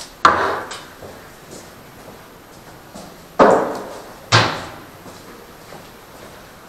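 Three loud metallic clanks from a heavy cast-iron toast maker's plates and handles being handled and closed. The first comes just after the start and the other two come close together past the middle, each ringing briefly as it dies away.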